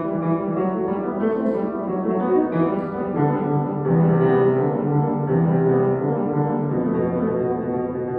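Solo piano playing classical music, coming in suddenly after a silence with full, sustained chords and melody.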